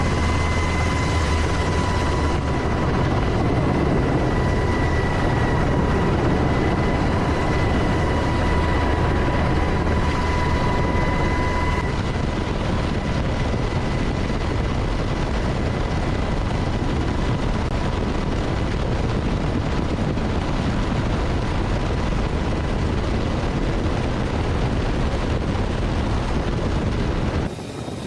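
Fighter jet engine running, a loud steady rush with a steady high whine that stops about twelve seconds in. The sound drops abruptly near the end.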